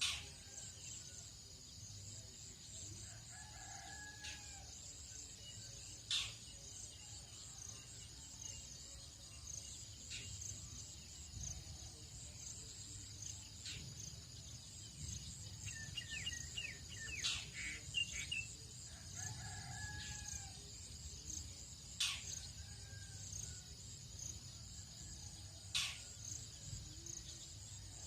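Distant rooster crowing twice, about three seconds in and again near twenty seconds, over a steady high insect chorus. Small birds chirp in a quick cluster mid-way, and a few sharp clicks sound throughout.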